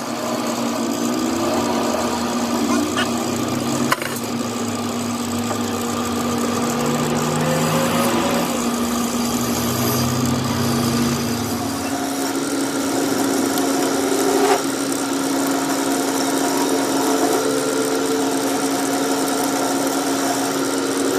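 A workshop machine running with a steady hum, with a sharp click about four seconds in and another near the middle.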